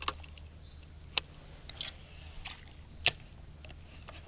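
A few sharp, isolated clicks, about a second in and again near three seconds, over a low steady hum, typical of handling fishing tackle during a slow lure retrieve.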